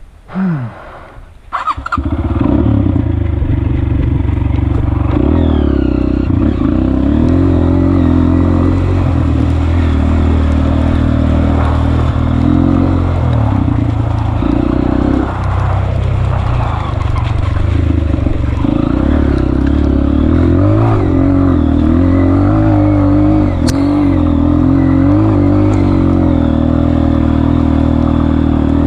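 Honda CRF230F trail motorcycle's single-cylinder four-stroke engine, coming in loud about two seconds in and then running continuously, its revs rising and falling as it is ridden.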